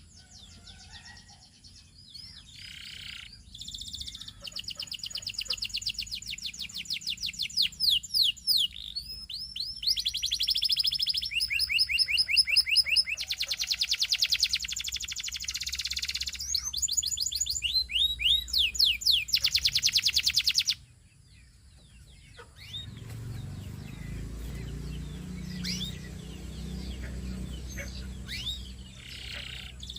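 Canary singing in long runs of fast repeated trills and rapid downward-sweeping notes. The song stops abruptly about two-thirds of the way in, leaving faint chirps over a low rumble.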